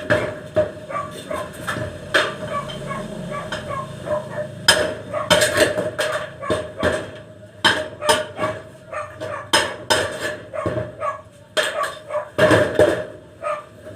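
Hammering during carpentry work: hammer blows and knocks at an uneven pace, some in quick runs.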